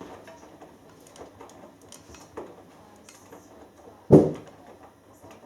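Hoover Dynamic Next washing machine early in a cotton wash, the drum turning a small load with soft sloshing and small clicks over a steady low hum. One sharp thump about four seconds in.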